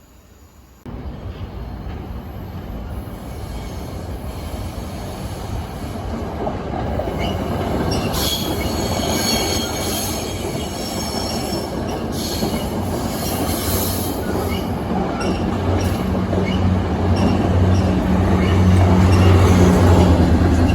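Train running on the rails, starting abruptly about a second in: a steady rumble with high-pitched wheel squeal, and a low drone that builds and grows louder toward the end.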